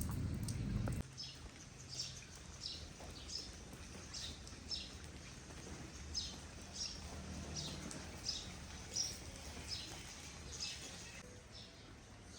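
A bird calling over and over: short high chirps, each falling in pitch, about once or twice a second, stopping near the end. A low rushing noise is heard first and cuts off suddenly about a second in.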